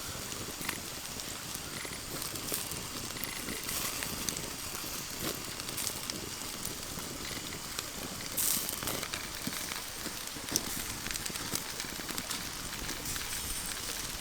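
Cooking over an open wood fire: steady hissing and crackling, with scattered small pops and a louder surge of hiss about eight seconds in.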